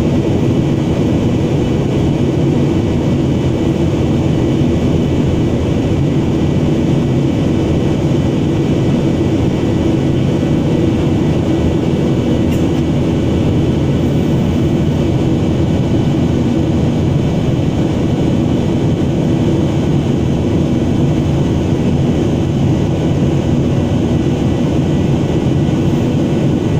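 Steady loud drone of an airliner's engines and airflow heard from inside the passenger cabin in flight, a deep even rumble with a faint steady hum over it.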